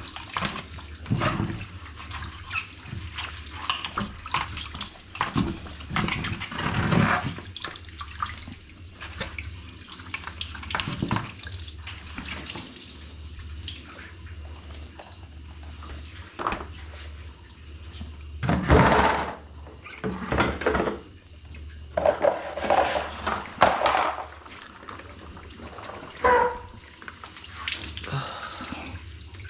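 Water running from a tap with irregular splashing and knocks, as washing-machine parts are scrubbed and rinsed. The splashing is loudest in the second half.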